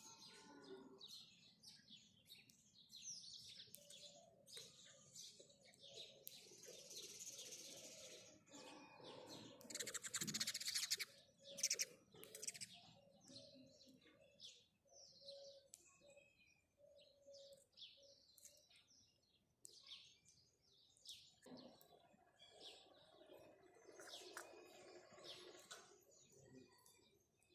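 House sparrows chirping, many short high chirps with a louder burst of rapid chirping about ten seconds in.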